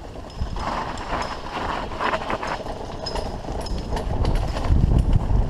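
Mountain bike rattling and knocking over a rough forest trail, with a low rumble that swells about four seconds in.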